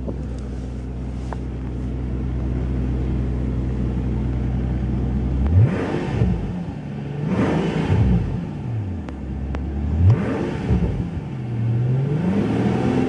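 2012 Mercedes-Benz S65 AMG's twin-turbo V12 idling steadily, then revved several times from about five seconds in. Each rev rises sharply and falls back to idle, and the last climbs again near the end. The revs are held by a rev limiter around 3,000 rpm.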